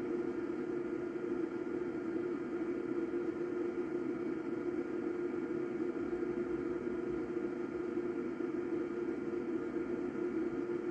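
Cooling fan of a Crown XLS 1000 power amplifier running at full speed: a steady whirring hum with a strong low drone and fainter higher tones.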